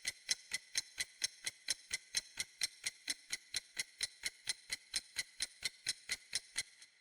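Clock ticking quickly and evenly, about four or five ticks a second, with a light metallic ring; the ticking stops shortly before the end.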